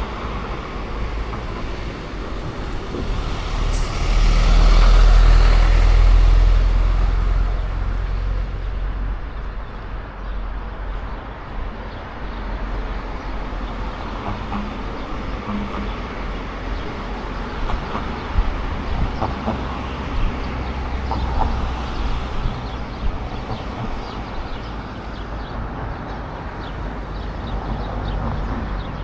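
Road traffic: a heavy vehicle, such as a truck or bus, passes close by, swelling to a loud peak about five seconds in and then fading. A steady low rumble of traffic runs underneath.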